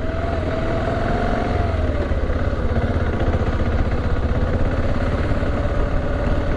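BMW G650GS single-cylinder motorcycle engine running while riding, its pitch easing down slightly about two seconds in and then holding steady.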